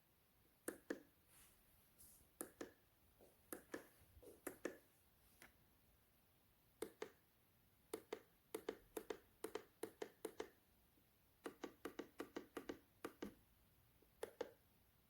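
A string of sharp, light clicks and taps at irregular spacing, coming in quicker runs around the middle and again about two-thirds of the way through.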